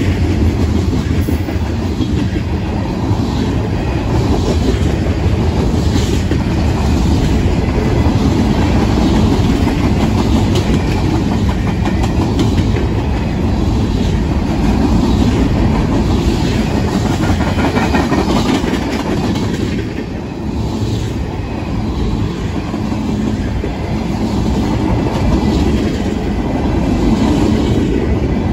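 Union Pacific mixed freight train's covered hoppers and container flatcars rolling past, a loud, steady rumble and clatter of steel wheels on rail.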